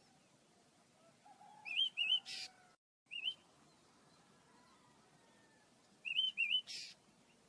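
Small pet birds chirping: two groups of quick rising-and-falling chirps, each ending in a short harsh rasp, with a single chirp between them.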